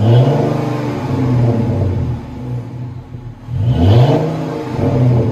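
2010 Dodge Challenger V6 revved twice through Flowmaster Super 44 mufflers, straight-piped out to the tips. The first rev is already up as it begins and eases off over about a second and a half. The second climbs quickly about three and a half seconds in, holds briefly and falls back.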